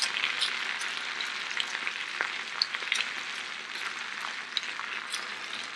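Sliced potatoes, onions and peppers frying in cast-iron skillets: a steady sizzle with scattered small pops and crackles.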